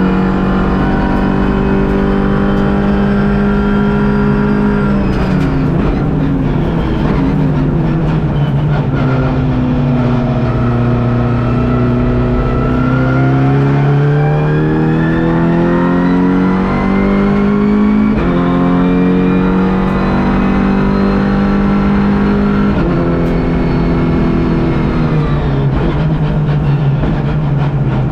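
Volkswagen Golf GTI TCR race car's turbocharged four-cylinder engine heard onboard on a hot lap. It holds a steady note for about five seconds, drops away as the car slows, then climbs hard under acceleration with a gear change from the sequential gearbox. It holds steady again, then drops and climbs once more near the end.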